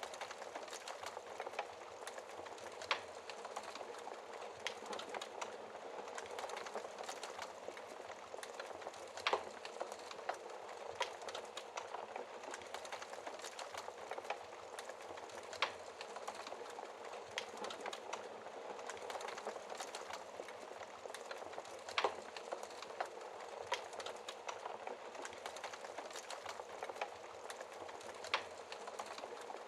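Wood fire crackling in a fireplace: a steady soft hiss with many small pops, and a louder, sharper pop about every six seconds.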